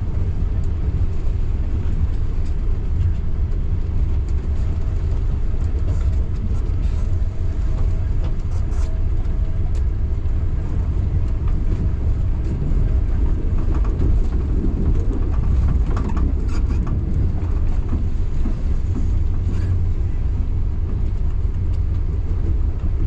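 Local passenger train running along the track: a steady low rumble with scattered clicks and rattles.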